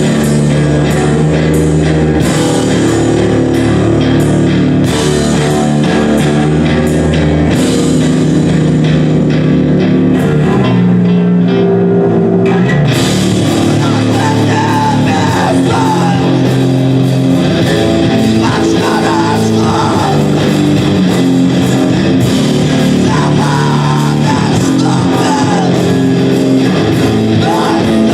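Live rock band playing loud with guitars, bass and drum kit. The cymbals drop back for a few seconds near the middle, then the full band comes back in.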